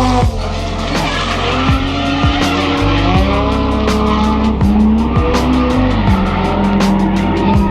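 Ford Barra straight-six in a Nissan R31 Skyline drift car, revving up and down repeatedly as it drifts, with tyre squeal, under background music.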